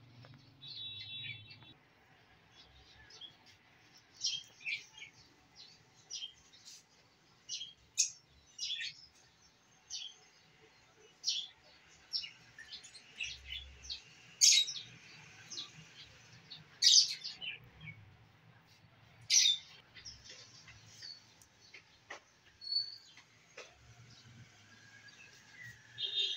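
Small birds chirping: many short, sharp, high calls at irregular intervals, thickest in the middle stretch.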